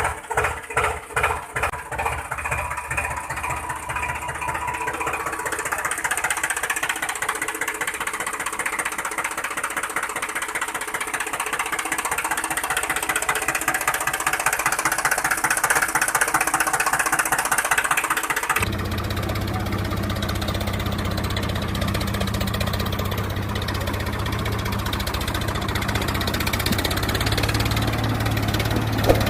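Engine running, at first with a pulsing beat that quickens until the beats blur together. About eighteen seconds in it cuts abruptly to a lower, steady hum.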